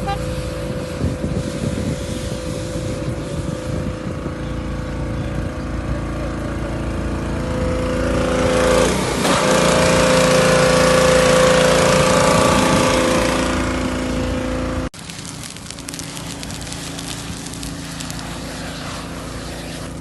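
Motor vehicle engine running steadily, growing louder and shifting in pitch about halfway through as it comes close, then cut off abruptly about three-quarters of the way in. After the cut comes a quieter noisy background with faint crackling.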